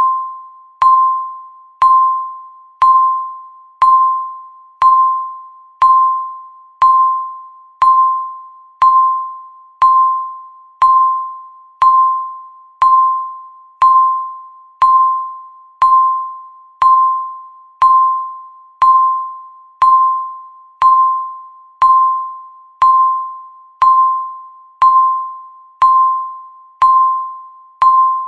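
Electronic countdown-timer beep, one short ding-like tone sounding once every second, each fading away before the next.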